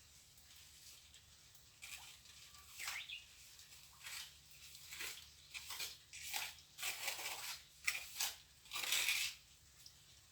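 Irregular scraping strokes of a plastering trowel working cement mortar, about ten in all, the longest and loudest near the end.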